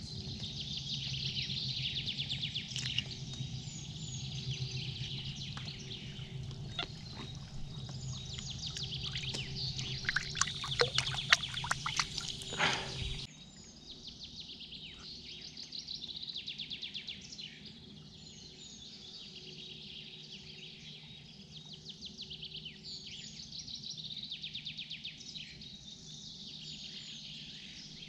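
Small birds chirping and trilling in repeated phrases over a low steady hum, which cuts off suddenly about thirteen seconds in. A quick run of sharp clicks from tackle being handled about ten to thirteen seconds in is the loudest part.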